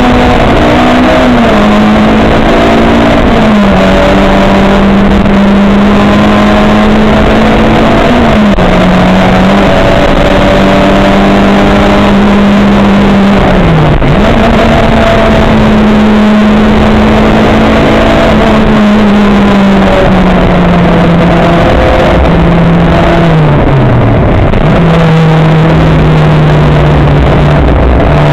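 A racing car's engine heard from on board during a lap, held at fairly steady revs. Its pitch drops several times at lifts and gear changes and then settles again. A loud rushing noise of wind and tyres runs underneath.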